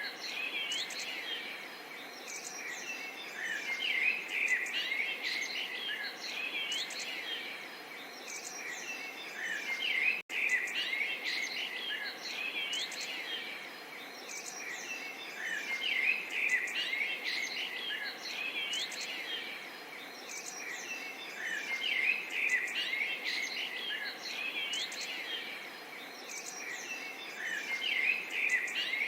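A dense chorus of small songbirds chirping and singing over one another, with a soft, steady babble of running water underneath. The sound cuts out for a split second about ten seconds in.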